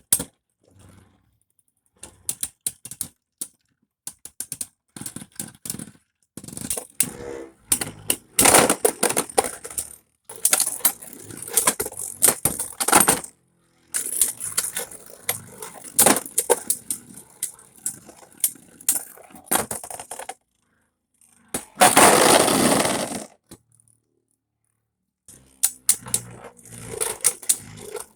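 Beyblade spinning tops clashing and scraping against each other in a stadium: fast runs of sharp clicks and rattles broken by short pauses, with a dense grating burst a little over twenty seconds in.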